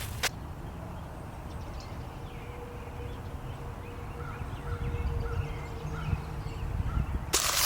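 Outdoor ambience: a steady low rumble with faint short chirps, then footsteps crunching through leaves starting about seven seconds in.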